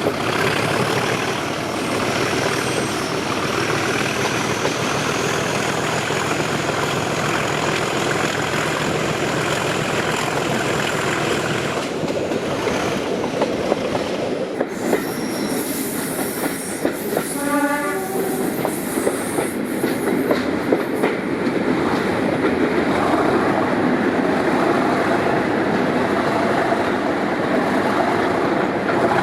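Class 37 diesel locomotive 37109, with its English Electric 12CSVT engine, running on the move, with wheels clicking over rail joints. Its horn sounds briefly about two-thirds of the way through.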